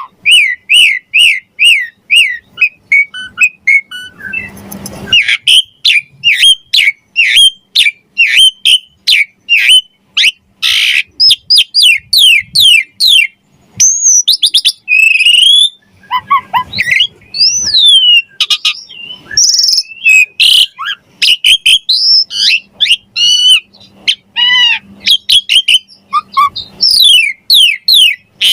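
Asian pied starling singing energetically: rapid runs of clear whistled notes and falling sweeps, varied with harsher chattering notes and a brief rasp about four seconds in.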